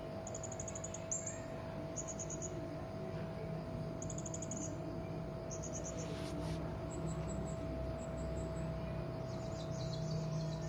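A serindit hanging parrot calling: short, rapid high-pitched chirping trills, repeated every second or two, with a busier run of calls near the end. A steady low hum runs underneath.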